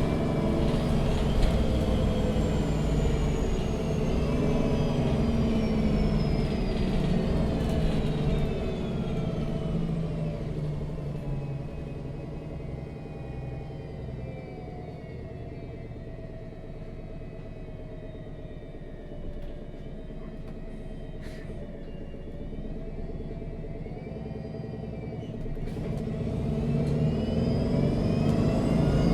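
MAN NG 313 CNG articulated bus heard from inside: the natural-gas engine and drivetrain whine fall in pitch as the bus slows. It runs quietly for about a quarter of a minute, then the whine rises again as the bus pulls away near the end.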